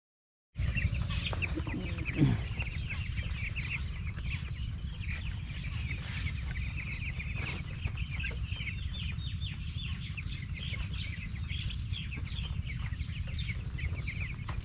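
A flock of two-week-old broiler chicks peeping, many short high chirps overlapping continuously, over a steady low hum. About two seconds in, a brief louder sound glides down in pitch.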